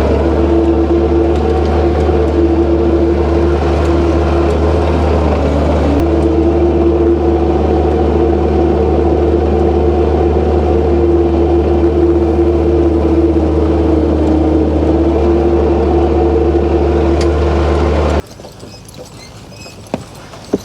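Skid steer engine running steadily at a constant speed, heard from inside the cab, with a deep drone and a steady whine over it. It cuts off abruptly near the end, leaving a few faint knocks.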